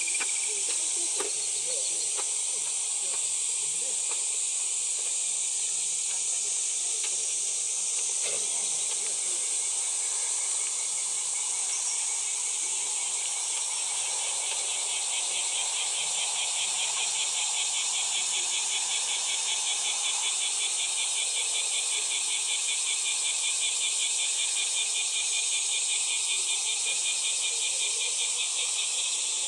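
Insects singing in a steady high-pitched chorus; about halfway through, a second, rapidly pulsing insect song joins in underneath and keeps going.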